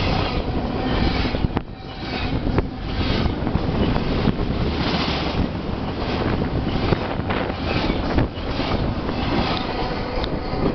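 Double-stack container freight train passing close at speed: a loud, continuous rush of wheels and air, with scattered sharp knocks from the wheels on the rails. Wind from the passing cars buffets the microphone.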